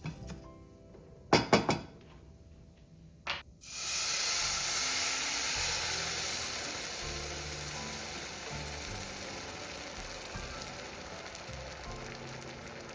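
A few sharp knocks, then about three and a half seconds in food hits hot oil in a frying pan and starts sizzling loudly, the sizzle easing off gradually.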